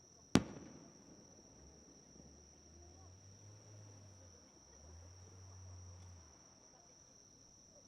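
A single sharp firework bang about a third of a second in, trailing off quickly, over the steady high chirring of insects such as crickets. A faint low rumble rises and falls in the middle.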